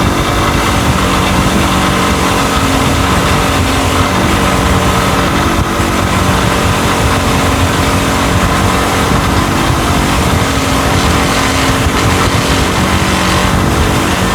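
Motor-driven wire wheel running steadily, wire-brushing rust and burnt-on grime off the steel of a rusted Record G-clamp.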